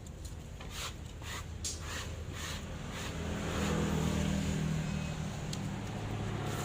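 A low engine hum, growing louder about halfway through and then holding steady, with scattered light taps and clicks over it.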